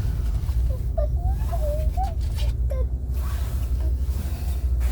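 Steady low rumble of a car driving slowly, heard from inside the cabin, with a few faint wavering squeaky tones in the middle.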